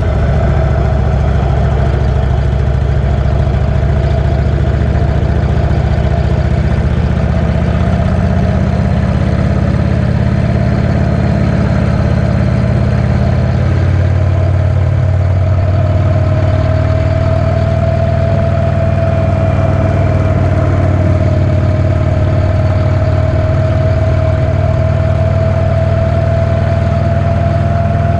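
V-twin cruiser motorcycle engine running steadily, its low note shifting slightly about halfway through.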